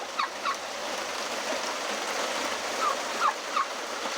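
Steady hiss of heavy rain, with a handful of short chirping calls from a pheasant: a few near the start and three more about three seconds in.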